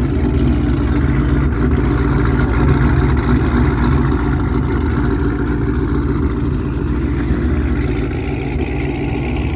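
Car engine idling steadily with a choppy, lumpy beat, typical of an aggressive camshaft, its exhaust loud and low.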